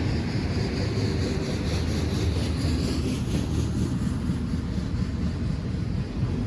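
Train rolling past: a steady low rumble of wheels and cars, with a faint high whine that fades out about three seconds in.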